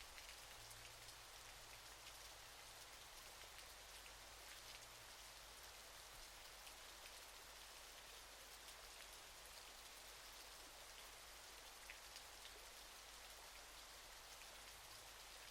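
Faint, steady rush of falling water from a waterfall: an even hiss, with scattered small ticks of droplets.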